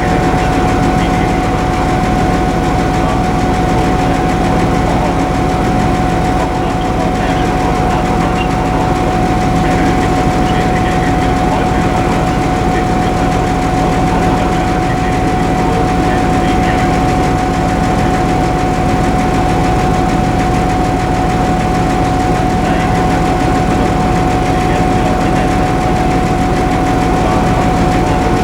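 Locomotive standing and running steadily: a constant low hum with a steady high whine over it.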